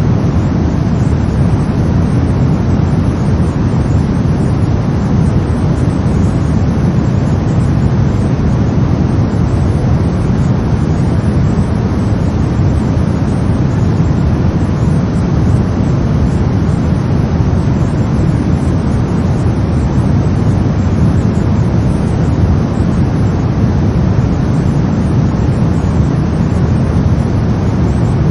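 Brown noise: a steady, deep rumbling hiss, strongest in the low end, with no changes or events.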